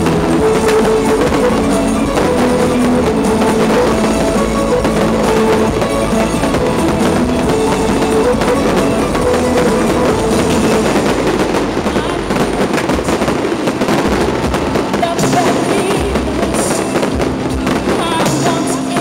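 Music playing over a dense crackle and scattered bangs of New Year's Eve fireworks, with voices mixed in.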